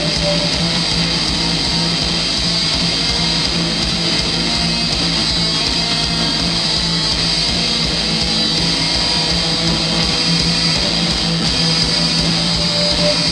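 Loud live rock band playing an instrumental passage led by guitar, the sound dense and steady throughout.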